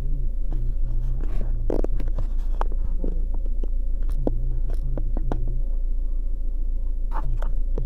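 Car heard from inside the cabin while moving slowly: a steady low engine hum, with on-and-off low tones and scattered small clicks and knocks.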